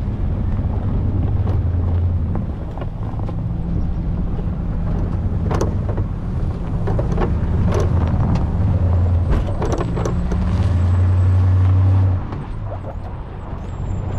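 Pickup truck engine running under varying load while plowing snow, its note swelling and easing every second or two, with a few sharp knocks over the engine.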